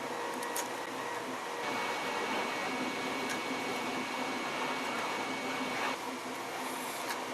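A 3D printer running: a steady whir of its fans with faint whining stepper-motor tones that shift as the print moves. A few light clicks of plastic parts being handled.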